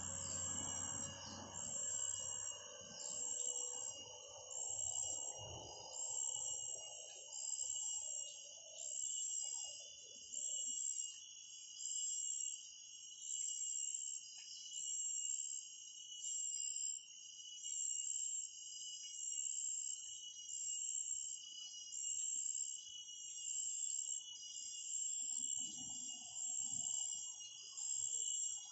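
High-pitched bird lure call repeating in a steady, even loop about every second and a half, used to draw in and provoke petpet birds. Faint low rustling and handling noise comes under it at the start and again near the end.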